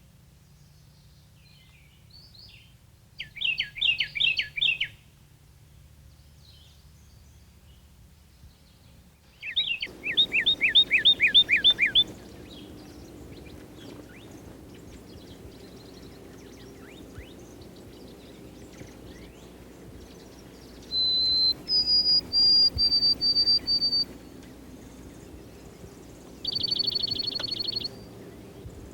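Backyard songbirds singing: two phrases of rapid down-slurred whistled notes, then a run of high, steady whistled notes, and a short fast trill near the end, over a low steady background hum.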